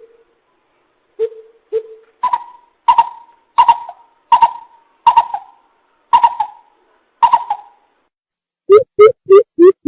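Coucal calling: a series of deep hooting notes, first two low hoots, then about eight higher, evenly spaced hoots with an echo, and near the end a quick run of low hoots.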